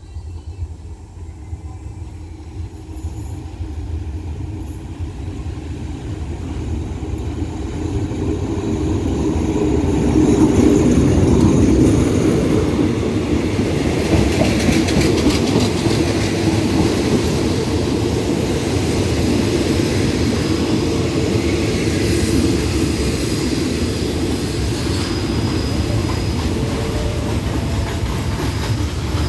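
Diesel-hauled passenger train pulling into the station and rolling past along the platform. The rumble of the locomotive and the wheels on the rails grows louder over the first ten seconds as it approaches, then holds steady as the carriages pass, with wheel clatter.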